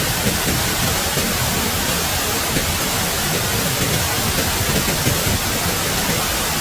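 Steady, even rushing of water, constant in level with no distinct events.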